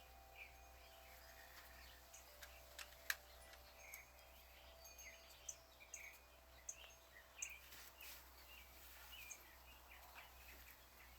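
Faint backyard birds chirping in short, repeated calls throughout, with a few light clicks, the sharpest about three seconds in.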